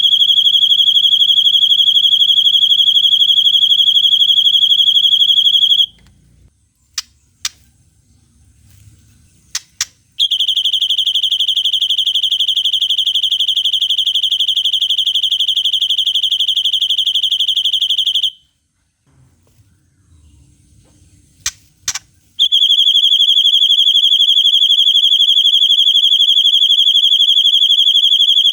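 Songbird singing long, even 'cililin'-style trills, very fast and high, in three bouts of about eight seconds each. Between the bouts come a few short, sharp single notes.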